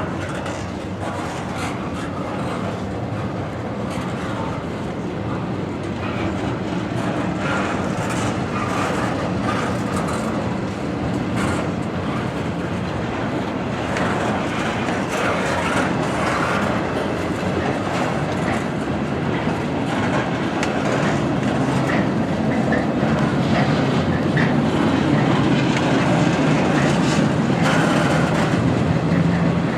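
Freight train rolling past, its wheels clacking over the rail joints. It grows gradually louder as it comes closer.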